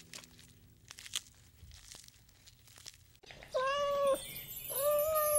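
Giraffe stripping leaves from a bundle of branches, with faint crackling and snapping of twigs. About three and a half seconds in, a tabby domestic cat meows twice, two drawn-out meows about half a second apart, much louder than the browsing.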